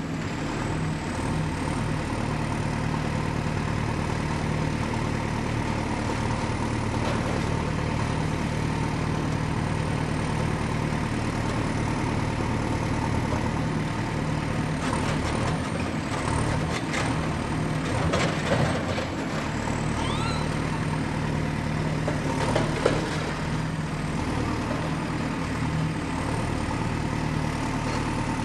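Excavator's diesel engine running steadily under work, with a cluster of metallic clanks and scrapes around the middle and one sharp clank near the end.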